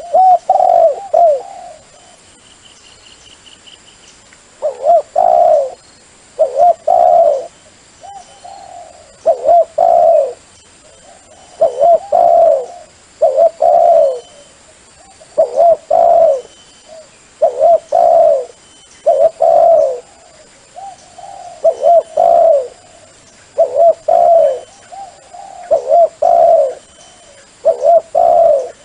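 Dove cooing in repeated phrases, one roughly every two seconds, each phrase a few short low coos. It is a call used as a lure to draw wild doves in for decoy trapping.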